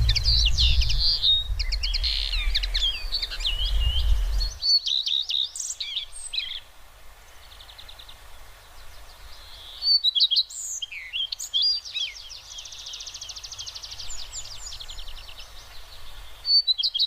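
Small birds chirping and calling in quick phrases, with a fast trill about twelve to fourteen seconds in. A low rumble lies under the first four seconds or so and cuts off abruptly.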